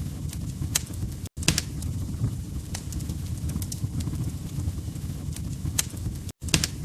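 Wood fire burning in a fireplace: crackling with scattered sharp pops over a low, steady rumble of the flames. The sound cuts out completely for an instant twice, about a second in and near the end.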